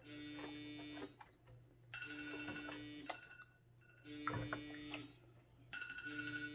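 A timer alarm going off: a buzzy electronic tone, about a second on and a second off, sounding three times, with a fourth starting near the end.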